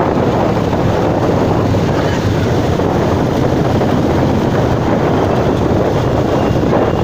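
Motorcycle engines running in a steady, dense rumble, with wind noise on the microphone.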